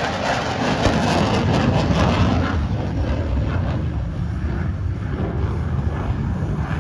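Jet noise from an EA-18G Growler's twin General Electric F414 engines: a dense rushing roar with a deep rumble under it, loud at first and easing after about two and a half seconds.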